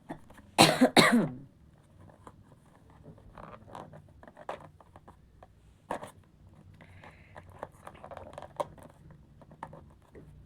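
Earbud packaging being unwrapped by hand: a loud rip or crinkle about half a second in, then quieter rustling with small clicks and taps.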